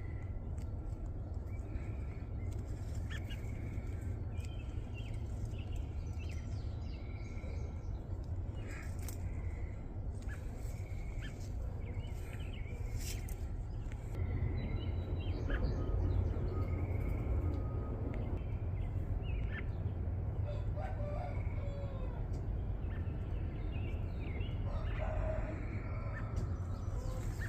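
Backyard chickens around the coop, with a rooster crowing and hens clucking. Short high chirps from small birds repeat every second or two, over a steady low rumble.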